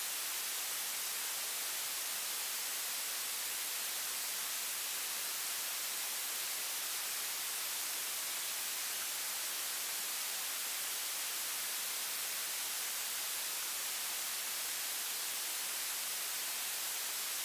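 Steady electronic hiss on the recorded cockpit audio feed between air traffic control transmissions, even throughout and strongest in the high frequencies, with no engine tone heard.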